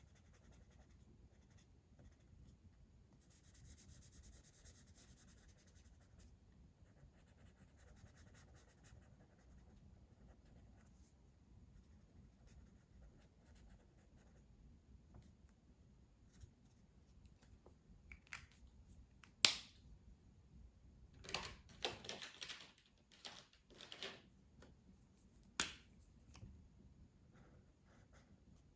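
Faint scratching of a colouring tool on paper. About two-thirds of the way through come a handful of sharp clicks and knocks as colouring tools are handled; the loudest is a single click.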